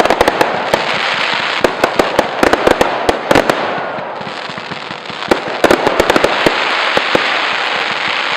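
Fireworks display: rapid clusters of sharp cracks and bangs over a continuous hissing, easing off briefly about halfway through before a fresh burst of crackling.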